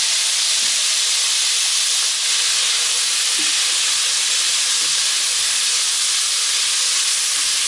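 Pieces of longaniza sausage and frozen grated carrot frying in hot oil in a nonstick pan, a steady sizzle, while a plastic spatula stirs them.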